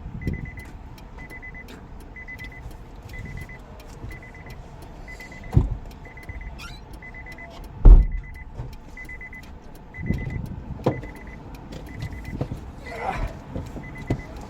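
A car's warning chime beeping steadily, about two short high beeps a second, stopping near the end, with a few dull thumps inside the vehicle, the loudest about eight seconds in.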